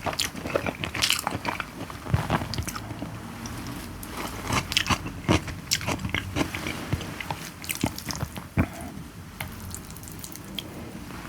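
Close-up eating sounds: irregular wet clicks and crunches of food being bitten and chewed.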